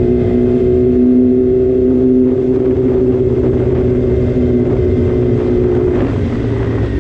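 Inline-four sport bike engine running at a steady high pitch under way, with wind and road rumble underneath; the pitch changes about six seconds in.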